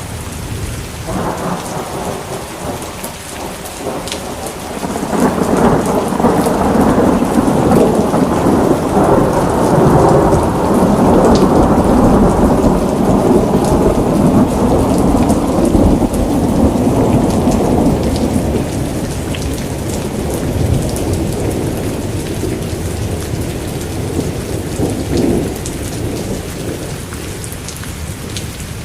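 Steady rain falling, with a long roll of thunder that builds about a second in, is heaviest for around ten seconds, and slowly dies away near the end.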